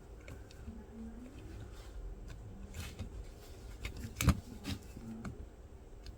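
Diecast toy monster trucks being handled: scattered light clicks and taps, with one sharper knock about four seconds in.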